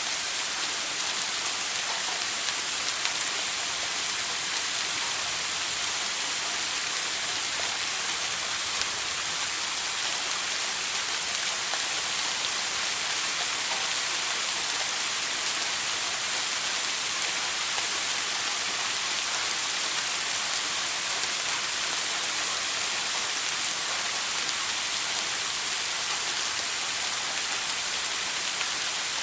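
Shower water spraying steadily, a dense even hiss of falling water with faint patter.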